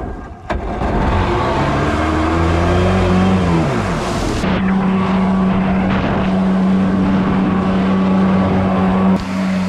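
Stand-up jet ski's two-stroke 500 engine firing up and revving. Its pitch climbs and dips over the first few seconds, then it holds steady for about four and a half seconds before dropping back near the end.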